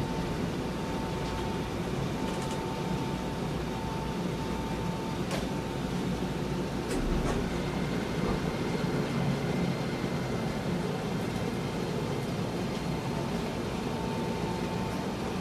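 Interior noise of a Keisei 3000-series electric commuter train car: a steady low rumble with a steady high tone that fades about five seconds in and returns near the end. A few sharp clicks come around the middle.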